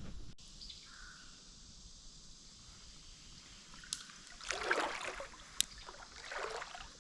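Water splashing twice, about four and a half and six seconds in, with a short sharp click between, over a faint steady creek trickle.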